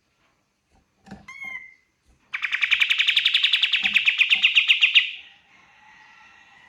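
Kapas tembak songbird singing: a few short whistled notes, then a loud, rapid rattling trill lasting nearly three seconds, trailing off into softer notes.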